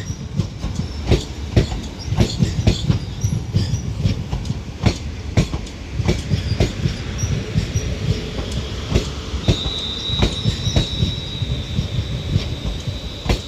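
Double-set London Northwestern Railway Class 350 electric multiple unit rolling slowly in on arrival, its wheels clacking irregularly over rail joints and pointwork over a low rumble. A thin high squeal from the wheels joins about nine and a half seconds in as it slows to stop.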